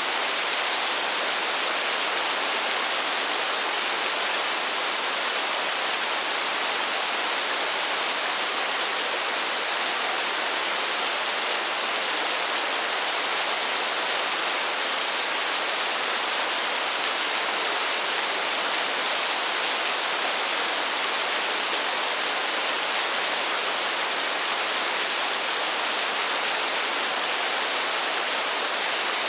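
Steady rainfall, an even hiss with no separate drops or changes.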